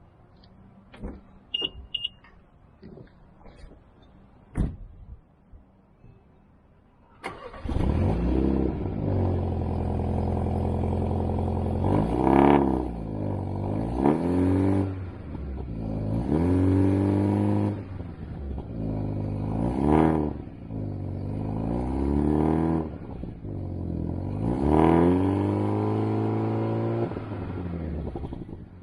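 BMW X2 M35i's turbocharged four-cylinder engine cold-starting: a few light clicks, then about seven seconds in the engine catches with a sudden loud burst and settles into a high idle. It is revved several times, the pitch climbing and dropping back in each rise.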